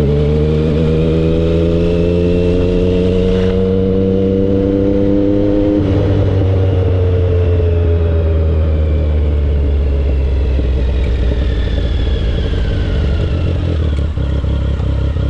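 Triumph Speed Triple's three-cylinder engine and exhaust pulling hard, its note climbing steadily for about six seconds; then the throttle closes and the pitch falls slowly as the bike slows.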